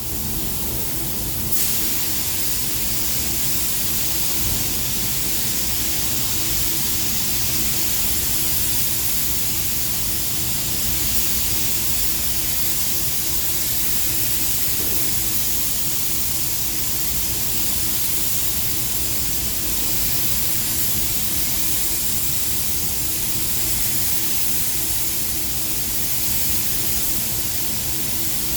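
Paint spray gun hissing steadily as silver-mirror paint is sprayed, the hiss filling in about a second and a half in, over a steady low hum.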